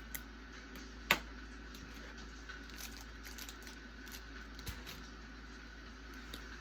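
Small desk sounds of someone studying: scattered taps and clicks of a pen and stationery, with one sharper click about a second in, over a steady background hiss.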